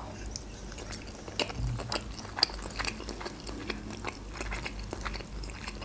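A person chewing a mouthful of crab salad close to the microphone: soft, irregular mouth clicks.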